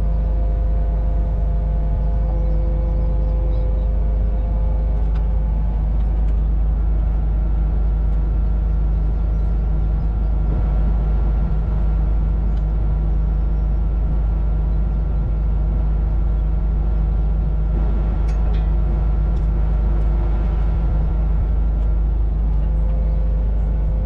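Kubota KX61-2 mini excavator running steadily under work. A higher whine joins in about seven seconds in and drops out a couple of seconds before the end.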